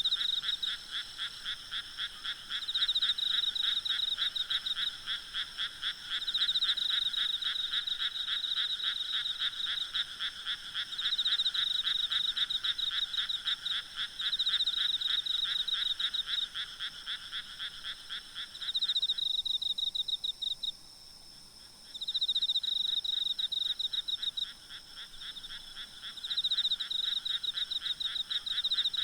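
A chorus of many frogs croaking in rapid pulsing trains, with louder bouts swelling every few seconds, over a faint steady trilling of insects. The lower-pitched part of the chorus stops for about two seconds past the middle, then resumes.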